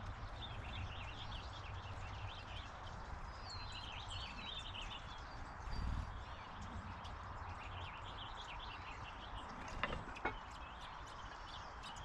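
Backyard birds chirping in short, repeated calls over a steady outdoor background. A dull thump comes near the middle, and two sharp taps come about ten seconds in.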